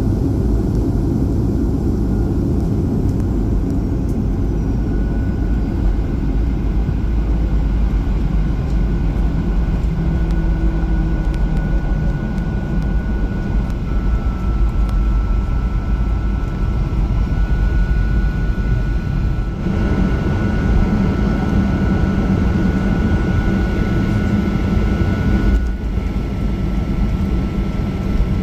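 Boeing 737-800 jet airliner running, a steady loud rumble with a faint high whine from its CFM56 engines that shifts in pitch a few times.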